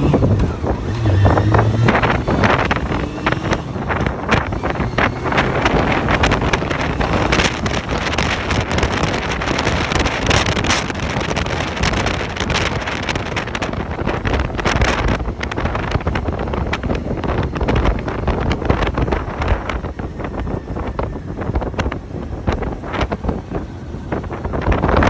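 Wind rushing and buffeting over the microphone of a motorcycle riding at speed, drowning out most of the engine. The Honda CB400 Super Four's inline-four with its Yoshimura muffler is heard only in the first couple of seconds, coming off a rising rev.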